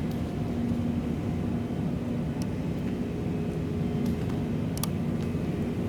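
Steady low mechanical hum and rumble, with a few faint clicks about two and a half, four and five seconds in.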